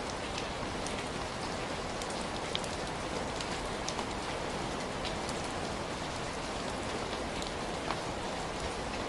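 Heavy rain falling steadily, a dense even hiss with scattered louder drops ticking on a surface.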